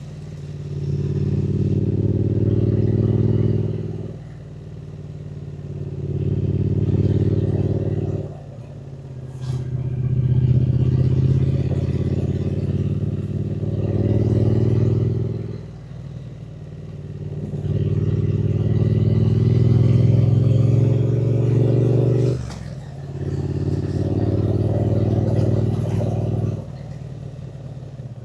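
Triumph Speed Twin 900's parallel-twin engine pulling hard in several stretches of a few seconds each, revs rising within each, with brief drops as the throttle is rolled off between them.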